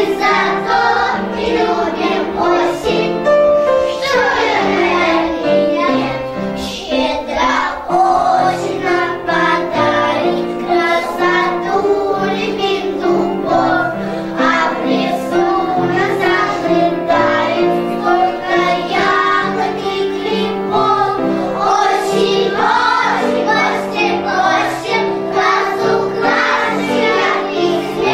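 A group of young children singing a song together over an instrumental backing track.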